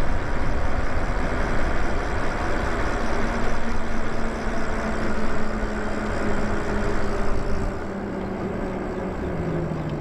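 Riding noise from the Lyric Graffiti electric bike on the move: wind and road rush with a steady motor whine. The rush eases about eight seconds in, and the whine drops in pitch near the end.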